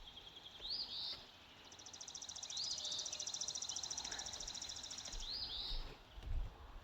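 Wild birds calling: a short rising-and-falling call repeated every two to three seconds, and a long fast trill of even pulses lasting about three and a half seconds. A low rumble comes in near the end.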